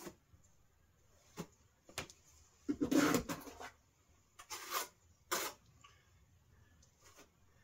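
Handwork noises: a few separate knocks and scrapes, the loudest a longer rustling scrape about three seconds in.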